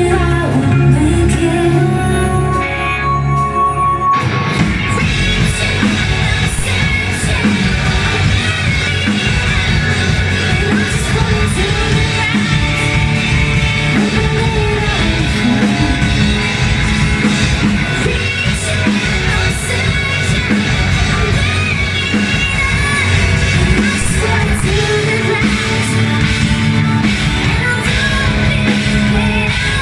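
Live rock band playing with singing, guitar and drums. After a held, sparser passage, the full band comes in hard about four seconds in and plays on steadily.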